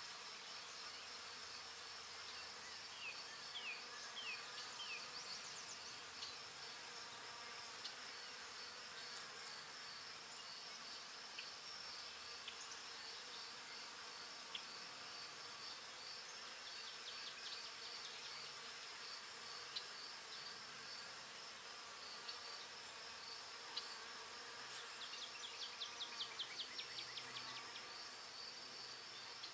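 Faint, steady chorus of insects, a high pulsing trill. A few short falling chirps come about three seconds in, and a quick run of sharp chirping notes near the end.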